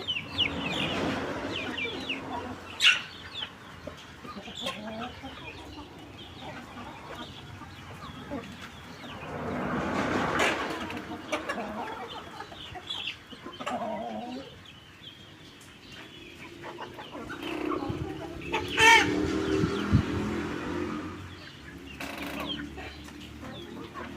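A flock of caipira (Brazilian free-range) chickens clucking on and off, with a rooster crowing loudly about nineteen seconds in.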